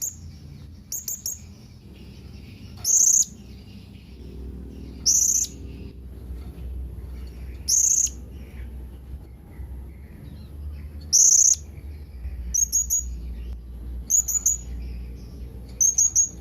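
Blue-crowned hanging parrot (serindit) giving its shrill, high-pitched call to its companions: single short notes every two to three seconds, then quick runs of two or three chirps near the end.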